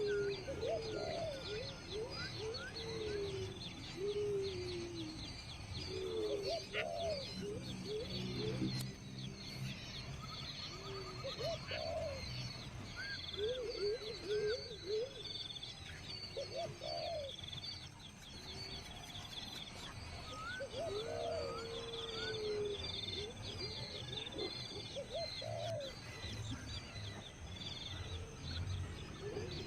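Birds calling: groups of low, arching notes recur every few seconds over a continuous thin, high chirping.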